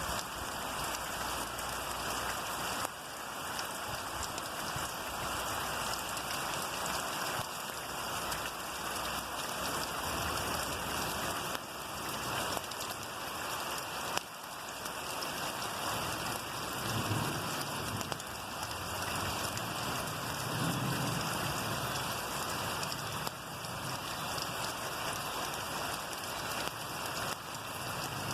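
Steady rainfall, an even hiss of rain coming down.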